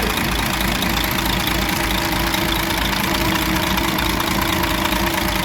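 DAF 105 truck's inline-six diesel engine idling steadily, with a regular low pulse about three times a second.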